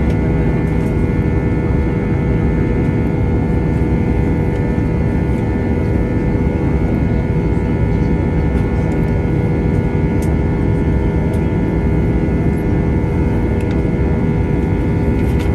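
Steady drone inside the cabin of an Airbus A320-200 in flight, from its two IAE V2527-A5 engines and the rushing air, with a few constant hum tones over a deep rumble.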